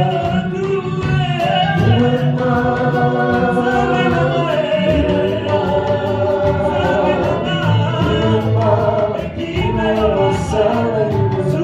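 Gospel worship music: a choir singing a sustained melody over instrumental backing with a steady percussive beat.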